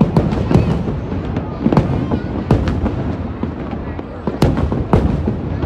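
Aerial fireworks shells bursting overhead: a string of sharp bangs, roughly one or two a second, over a continuous rumble.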